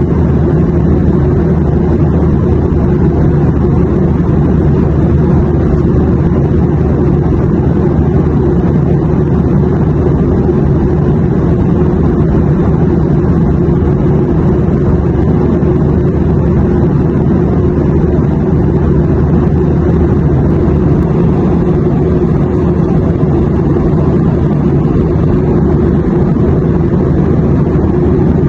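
Airplane cabin noise in flight: a steady, unbroken low drone of engines and airflow, heaviest in the low rumble with little hiss above it.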